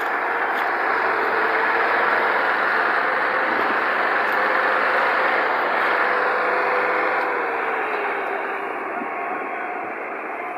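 Tractor engine running hard with a steady note that drops in pitch about seven seconds in, as the engine eases off.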